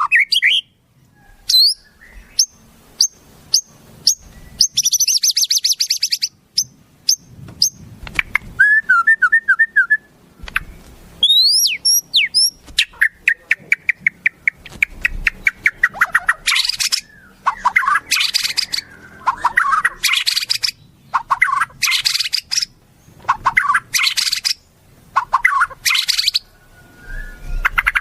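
Songbird song from a shama-training (masteran) recording: a varied stream of whistled glides, fast trills, rapid ticking series and harsh buzzy phrases, broken by short pauses.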